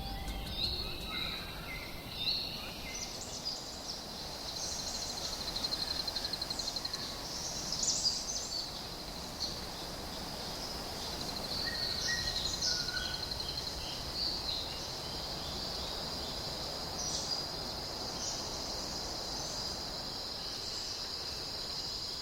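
Rainforest ambience: a steady high-pitched insect drone, broken into a fast pulsing trill for a couple of seconds about five seconds in, with scattered short bird chirps and calls over it.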